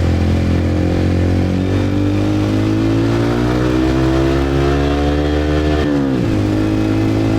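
Motorcycle engine running under way, its pitch climbing slowly through the revs. About six seconds in the pitch drops sharply, as at a gear change, then starts to rise again.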